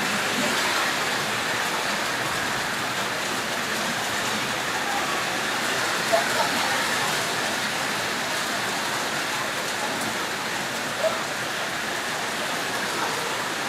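Steady rain falling, an even dense hiss, with a couple of brief sharper sounds about six and eleven seconds in.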